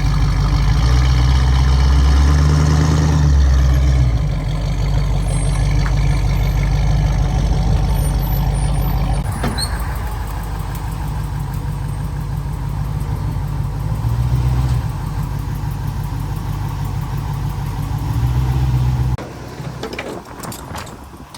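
A vehicle engine running steadily, its sound swelling a few times, then shutting off about 19 seconds in.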